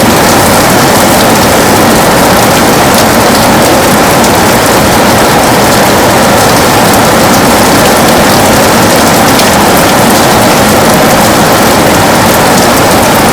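Heavy rain beating on a window, a loud, steady, dense hiss with many small drop ticks.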